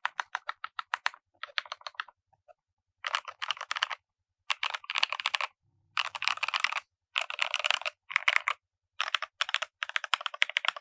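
Typing on a modded Keychron K4 v2 mechanical keyboard fitted with lubed Gateron Milky Yellow linear switches and foam dampening. It comes in bursts of rapid keystrokes of a second or so each, with brief pauses between them.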